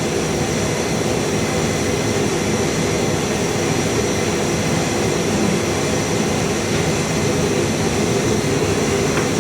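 Indesit IS60V vented tumble dryer running empty on low heat during a test run: a steady, even hum of drum motor and blower fan with a constant high whine.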